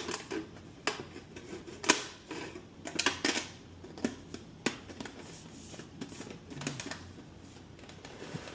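Irregular light clicks, taps and crinkles of thin aluminum flashing and a 3D-printed plate being handled and pressed together, with a few sharper knocks.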